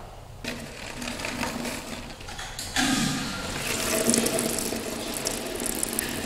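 Toilet flushing: water rushing with some mechanical clicking, starting about half a second in and surging louder about three seconds in.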